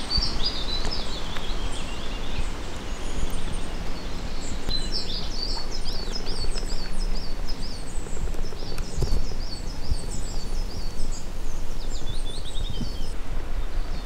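A small songbird singing in two bouts of quick repeated chirping notes: one stops about a second in, the next starts about four seconds in and runs until near the end. Under it is a steady low background noise.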